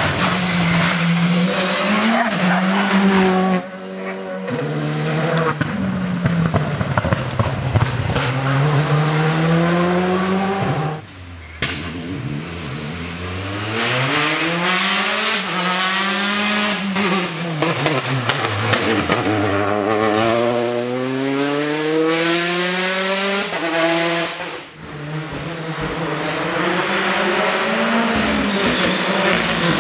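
Rally car engine being driven hard, its pitch climbing and falling again and again through the revs. The sound drops off sharply three times, about four, eleven and twenty-five seconds in.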